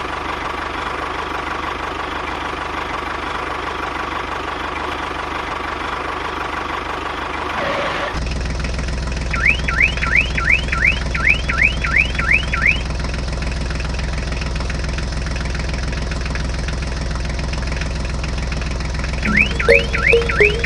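A steady engine-like hum that grows deeper and stronger about eight seconds in. Over it comes a run of quick rising electronic chirps, about four a second, for a few seconds, and they start again near the end.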